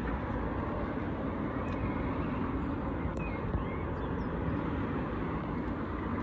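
Electric passenger train running past over the level crossing, a steady rumble and rush of wheels on rail.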